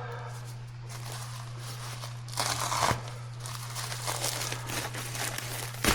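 A parts package crinkling and rustling as it is handled and opened, loudest about halfway through, with a sharp click near the end. A steady low hum runs underneath.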